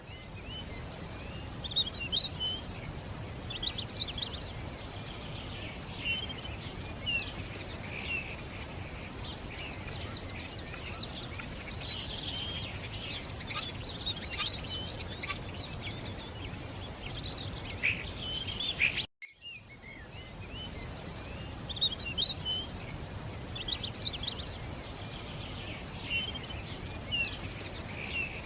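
A flock of small songbirds chirping and twittering, many short calls overlapping over a steady background hiss. The sound drops out for a moment about two-thirds of the way through, then the chirping resumes.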